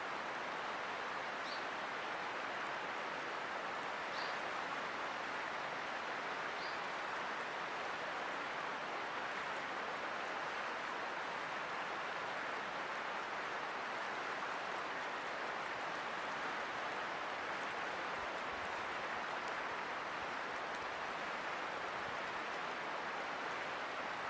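River water rushing steadily, with three short high chirps in the first seven seconds.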